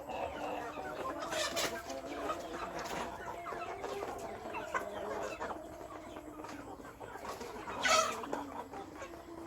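A flock of chickens clucking, many overlapping calls, with a louder, sharper call near the end.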